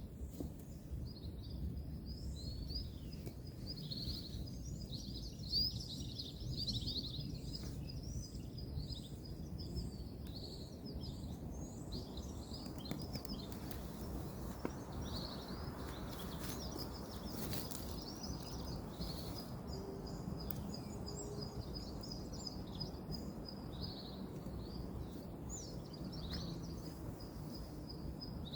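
Many small birds chirping and twittering over a steady low rumble of distant road traffic, with some faint rustling near the middle.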